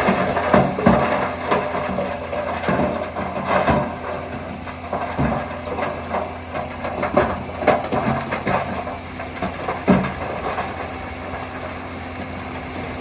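Bulldozer diesel engine running steadily, with irregular knocks and clanks as the machine works.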